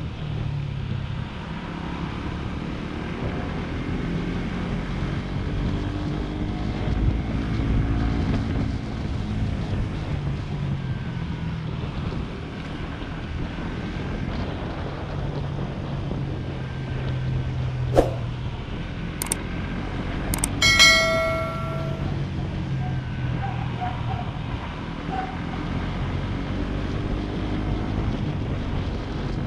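Motorcycle engine running on the road, its pitch rising and falling with the throttle, under steady wind noise on the microphone. About two-thirds of the way through, a sharp click and a brief high tone stand out.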